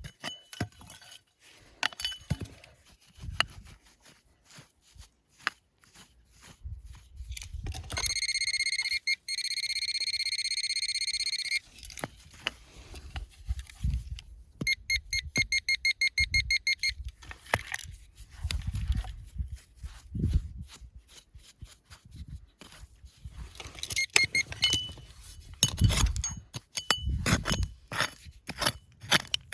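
Metal detector giving a steady high-pitched tone for about four seconds, then a fast run of short beeps a few seconds later, among scattered clinks and knocks.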